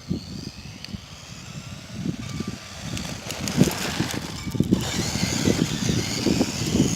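Tamiya Frog RC buggy's electric motor whining as it drives, its pitch sliding up and down with the throttle and getting louder after about three seconds. Irregular low buffeting from wind on the microphone runs underneath.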